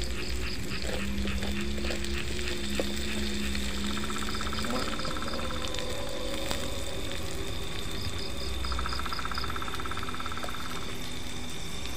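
Spice paste frying in oil in a pan, a steady sizzle. Over it, night frogs and insects call: a steady high insect whine, and two long runs of rapid trilling about a third of the way in and again after two-thirds.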